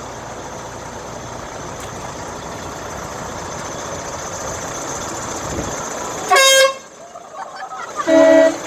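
Passing trucks' engines and road noise, growing slowly louder, then two short, loud truck horn blasts about six and eight seconds in, the second a lower-pitched horn.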